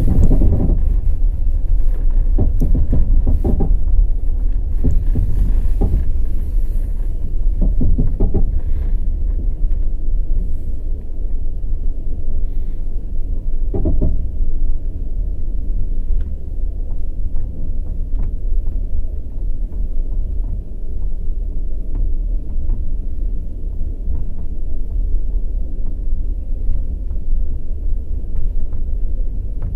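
Express passenger train's wheels rumbling steadily on the track, with clusters of sharp clacks over rail joints in the first third and another about halfway through, then an even low rumble.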